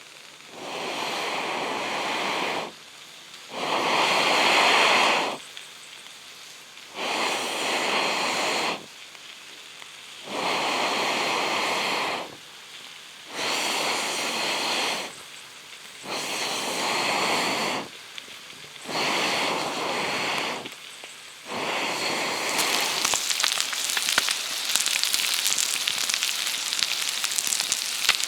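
Campfire being blown on in long puffs of breath, eight times, each about a second and a half long with a pause between, to fan the embers. About 22 seconds in, a steady crackling and sizzling of the fire takes over.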